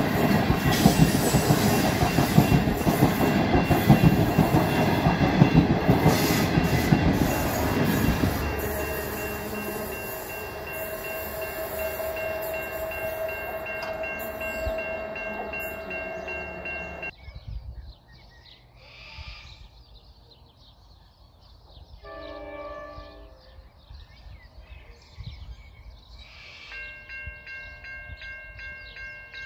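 The Ghan's passenger carriages roll over a level crossing with wheel clatter, loud at first and fading after about eight seconds, while the crossing's warning bell rings steadily. The sound cuts off sharply about two-thirds of the way through. After a quieter stretch with one brief pitched call, the crossing bell starts ringing again near the end.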